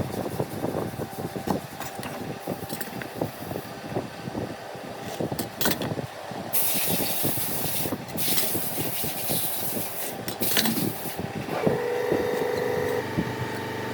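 Workshop hand-work on wood: many small knocks and scrapes, with two bursts of hissing air around the middle. Near the end a machine starts up and runs with a steady hum.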